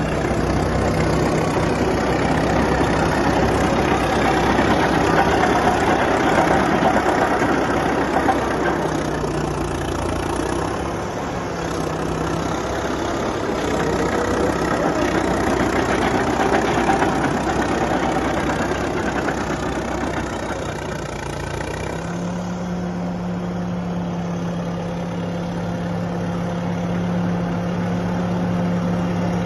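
Caterpillar D7E crawler dozer's diesel engine running, with a heavy, uneven mechanical din that about two-thirds of the way through gives way to a steadier, smoother hum.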